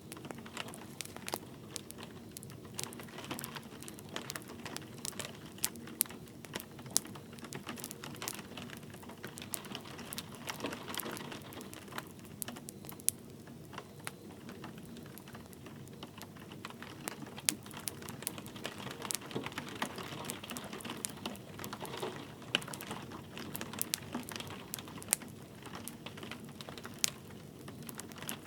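Wood fire crackling with sharp, irregular pops and snaps, over a soft, steady patter of light rain.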